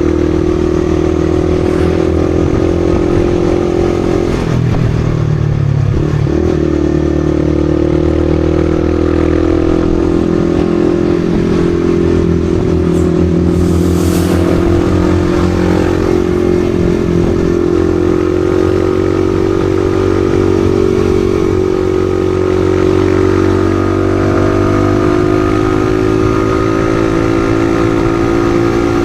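Yamaha XSR155's single-cylinder engine running at steady revs while riding. The revs dip and pick up again about five seconds in.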